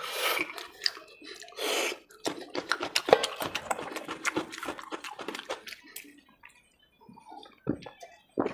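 Close-miked wet chewing and mouth sounds from eating puri with mutton curry: quick smacks and clicks for several seconds, then quieter near the end with a couple of dull knocks.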